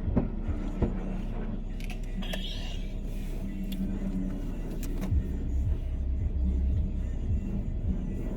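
Low steady rumble of a car with its engine running, with a few short knocks and clicks; the rumble grows stronger about five seconds in.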